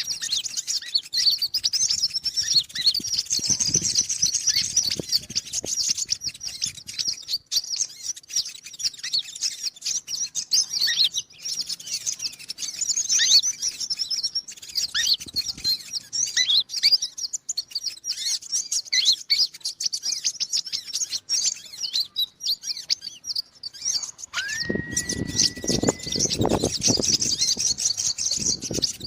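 Sunbird (konin) calling: rapid, high-pitched twittering chirps without pause, the kind of call played as a lure to trap small birds. About 24 seconds in, a steady held tone and a lower rough sound join briefly.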